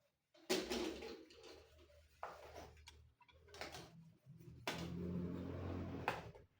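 Knocks, clicks and scraping from handling the parts of a flat-screen TV being taken apart, with a longer steady noise about five seconds in.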